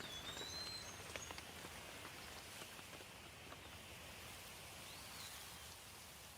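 Steady light rain with scattered drip ticks, and a bird whistling: one drawn-out whistle right at the start and a short rising-and-falling whistle about five seconds in.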